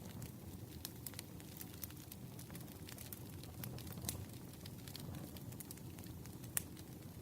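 Wood campfire crackling: a steady low rumble with irregular sharp pops and snaps, the loudest pop about six and a half seconds in.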